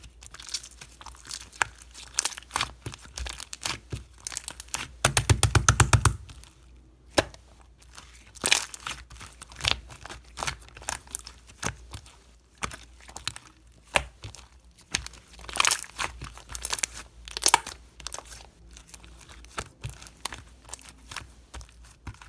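Clear slime being squished and stretched, with trapped air popping in sharp clicks and crackles. A fast run of pops about five seconds in is the loudest part.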